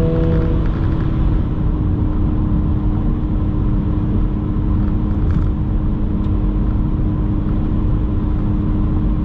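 11th-gen Honda Civic Si / Acura Integra 1.5-litre turbocharged four-cylinder running through an AWE cat-back exhaust. It holds a steady engine speed with an even exhaust drone over a low rumble.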